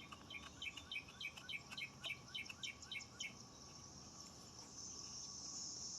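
A bird chirping in a quick run of short, repeated notes, about three a second, for roughly three seconds, over a steady high insect hiss that grows slightly louder near the end.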